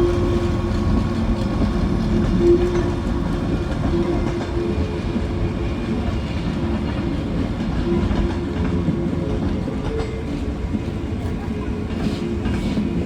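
Heritage train running along the track, a steady low rumble that holds through the whole stretch.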